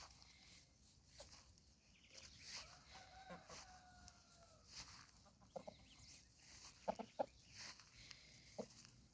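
Faint clucking from a pair of fighting-breed chickens, a rooster and a hen: a few short, low clucks, most of them in the second half.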